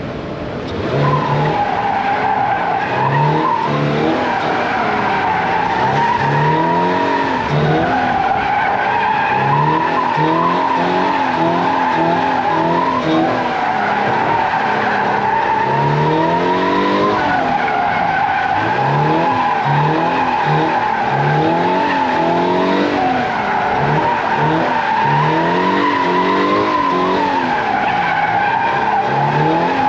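Toyota GR86's 2.4-litre flat-four revving up and down over and over while the tyres squeal without a break through back-and-forth drift transitions.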